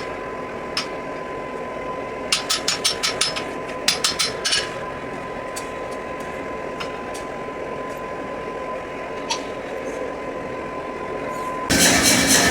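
Hammer blows on steel at an anvil in quick runs of several strikes, then a few single knocks, over a steady high tone. A louder, steady noise begins abruptly near the end.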